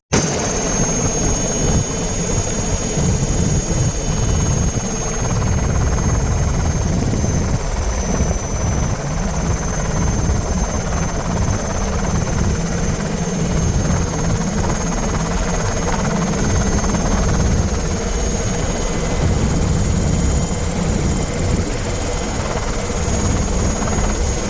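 Military turbine helicopter in flight, heard from on board: a steady, dense rotor and engine rumble with a thin, steady high turbine whine above it.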